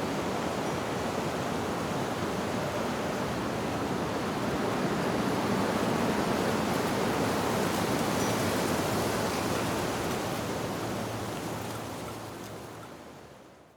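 Steady rushing wind through leaves, with a faint high wind-chime note once or twice. The sound fades out smoothly near the end.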